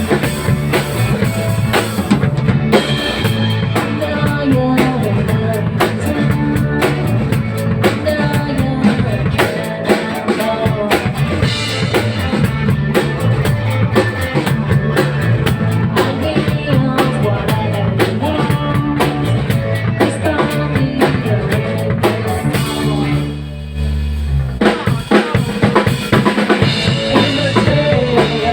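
A band playing rock music: drum kit with bass drum, snare and rimshots over a stepping bass line. About 23 seconds in, the drums drop out for a moment under a held low bass note, then come back in.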